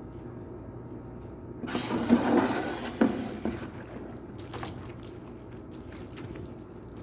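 A burst of water splashing for about two seconds, loudest in the middle, then a few small drips and crackles, over a steady low hum.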